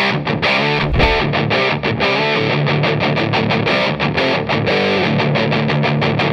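Electric guitar played through an overdrive pedal, a distorted riff of quick, evenly picked notes, about six a second, with a low thump about a second in.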